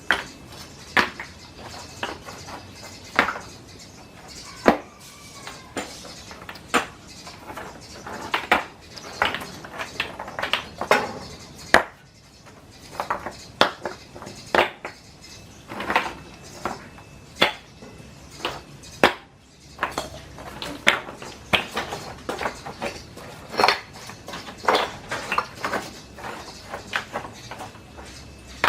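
Irregular sharp clinks and taps of hard hand tools striking hard material, roughly one or two a second, with short pauses between.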